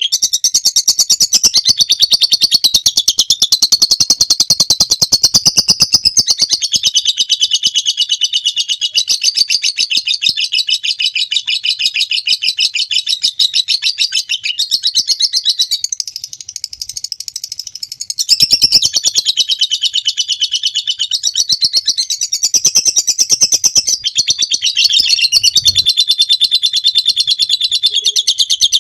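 Lovebird singing its long 'ngekek' chatter: a continuous run of very rapid, high-pitched notes that eases briefly a little past halfway and then carries on.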